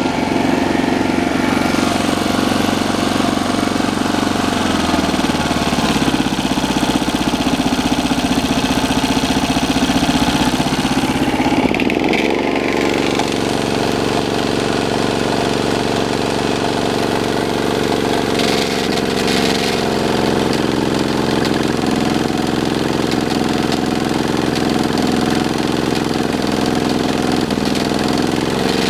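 Camping-car engine running steadily, recorded for an abnormal engine noise; its pitch steps up to a higher, steady speed about twelve seconds in.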